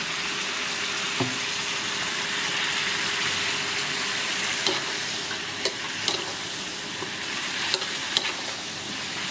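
Food frying in hot oil in a wok, a steady sizzle, with a few sharp clinks of a metal spatula against the pan.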